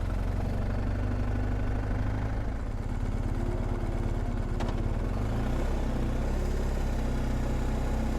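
Vehicle engines idling steadily, the engine note shifting in pitch about five seconds in. There is one faint click just before the shift.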